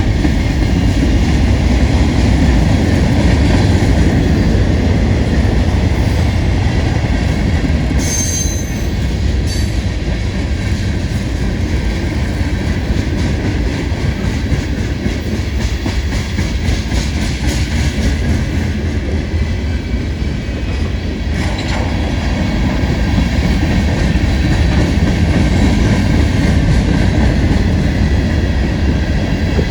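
Long Union Pacific manifest freight train rolling past at close range: a steady, loud rumble of wheels on rail. A brief high wheel squeal comes about eight seconds in, and a run of rhythmic clicking from the wheels follows in the middle.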